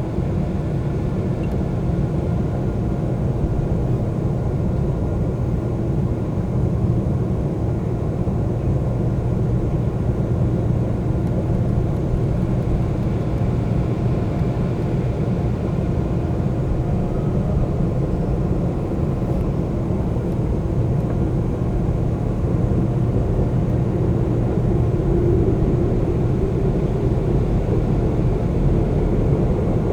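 Seoul subway train running between stations, heard from inside the car: a steady rumble of wheels and running gear that grows slightly louder near the end.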